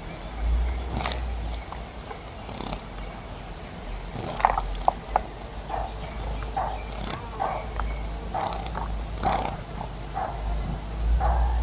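Birds bathing and calling at a bird bath: short chirps and small water splashes come one after another, with a brief high call about two-thirds of the way through, over a steady low rumble.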